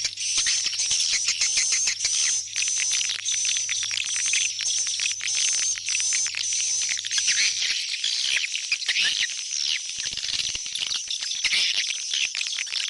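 Swiftlet calls: a dense, high chirping and twittering chorus. Through the first two-thirds it carries a high tone that pulses on and off at an even pace, then the sound turns to looser twittering.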